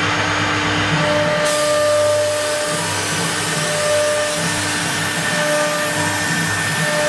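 CNC wood router with two spindles running: a steady whir of spindle and machine noise, with whining tones that cut in and out every second or two as the machine works.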